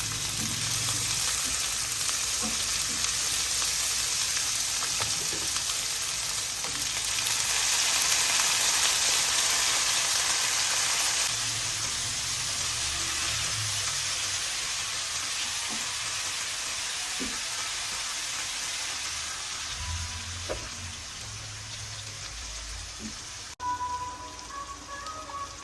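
Food frying in hot oil in a pan: a steady sizzle that swells for a few seconds about a third of the way in, then eases off, with a few light knocks of a utensil. Near the end it cuts off abruptly and faint music takes over.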